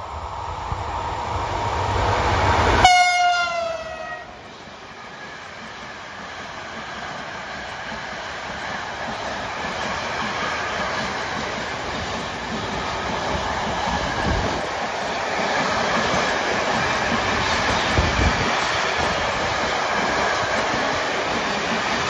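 A freight train passes close by: the locomotive rumbles up and sounds its horn as it goes past, the horn's pitch sliding down. Then a long string of loaded car-carrier wagons rolls by with a steady rumble and the clack of wheels over rail joints.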